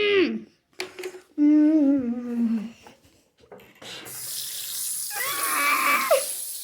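Brief pitched vocal sounds and a couple of clicks, then a steady rush of running water, like a tap running, that starts about four seconds in, with a short vocal sound over it.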